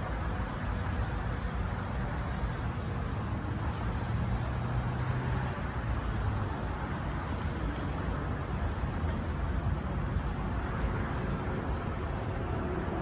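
Steady low rumble of distant road traffic, with a few faint high ticks partway through.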